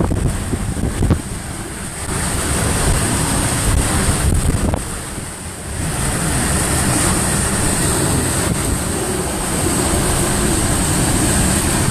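Hurricane Michael's hurricane-force wind blowing in gusts and buffeting the microphone, easing briefly about five seconds in before picking up again.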